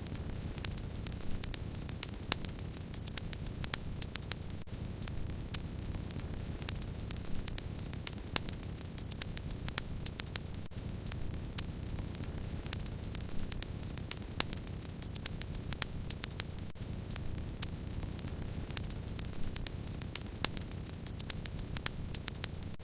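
Wood fire crackling: frequent sharp, irregular snaps and pops over a steady low rumble.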